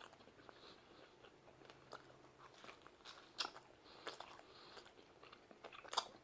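A person chewing a mouthful of pizza, faint, with scattered soft wet mouth clicks. One click about halfway through and one near the end are a little louder.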